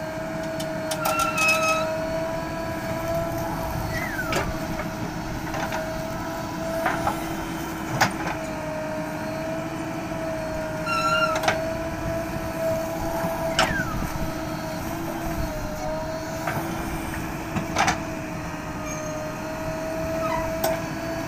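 JCB backhoe loader's diesel engine running at a steady working speed, with sharp metal clanks every few seconds from the bucket and arm, and a couple of short falling squeaks.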